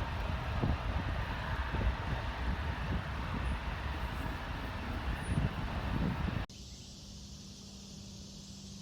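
Jet airliner engine roar mixed with wind buffeting the microphone. It cuts off abruptly about six and a half seconds in, leaving a quieter steady hum and hiss.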